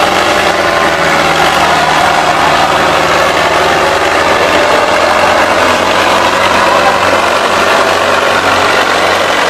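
Diesel tractor engines running loud and steady, with a dense clattering noise over a steady low engine drone.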